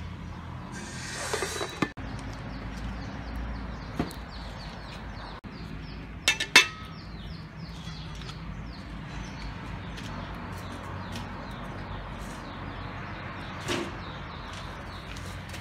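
A bird chirping over and over in short falling notes, about three a second, over a low steady hum. A little past six seconds in, a metal spatula clinks sharply against a steel wok, three quick strikes.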